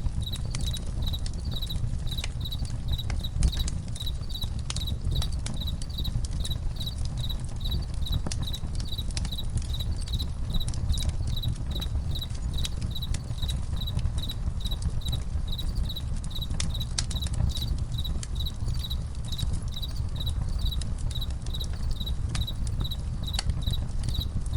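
Crickets chirping steadily, about three chirps a second, over a campfire crackling with scattered sharp pops and a low rumble.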